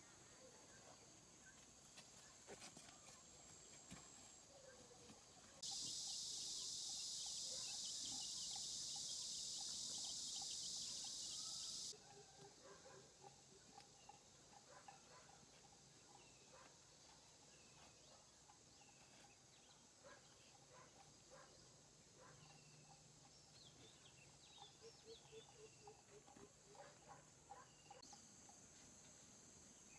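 Faint outdoor bird chirps and insect calls. A steady high hiss starts abruptly about six seconds in, lasts about six seconds, cuts off sharply, and is the loudest sound.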